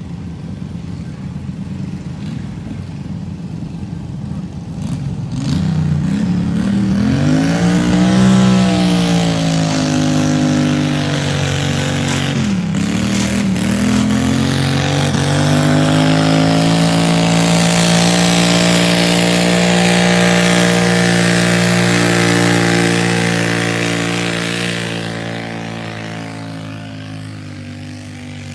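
A Cub Cadet garden tractor's engine pulling the sled in a garden tractor pull. It revs up about five seconds in, rises and dips briefly near the middle, then runs steadily at high revs under load for about ten seconds before easing off near the end.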